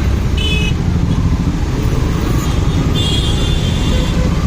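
Motorcycle on the move in traffic: a steady low rumble of engine and wind noise, with two short high-pitched tones, one about half a second in and a longer one around three seconds.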